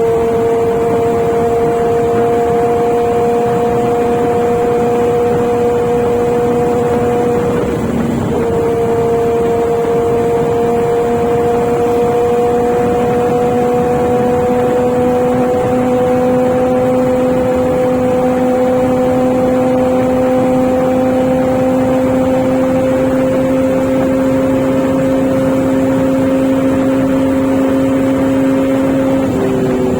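Inline-four motorcycle engine running at steady road speed with wind rush. Its pitch creeps slowly upward, breaks off briefly about eight seconds in, and drops near the end.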